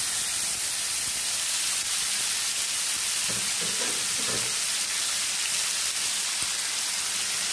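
Marinated elephant foot yam cubes sizzling steadily in hot oil in a shallow frying pan, a continuous even hiss.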